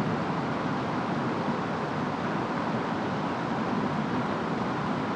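Steady rain and wind of a storm, an even hiss with no distinct drops, gusts or thunder claps.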